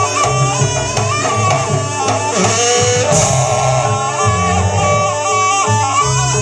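Live Javanese jaranan buto ensemble music: a reed shawm carrying a wavering melody over drumming and deep gong tones.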